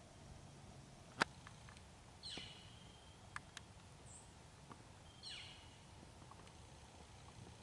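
Two short bird calls, each falling in pitch, about three seconds apart. A sharp click about a second in is the loudest sound, with a few smaller ticks scattered through.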